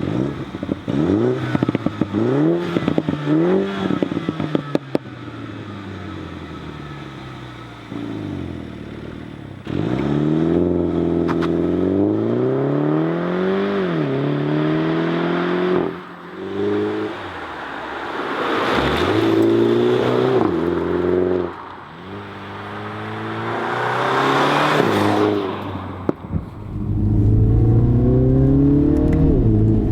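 Mini John Cooper Works Countryman's turbocharged four-cylinder engine revving and accelerating hard through the gears several times, its pitch climbing and then dropping at each upshift. Sharp exhaust crackles come in the first few seconds.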